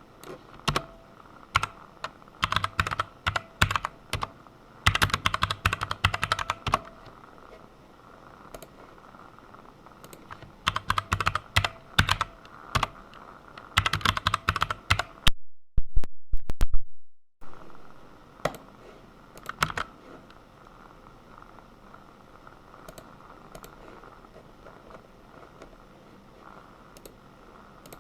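Computer keyboard being typed on, in quick runs of keystrokes broken by pauses, with only scattered single key presses in the second half.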